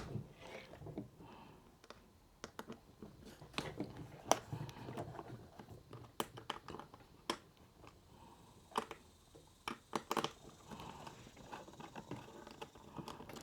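Scattered small clicks and scrapes at irregular intervals, from a hex key loosening a screw in the housing of an Uhlmann fencing reel while the parts are handled.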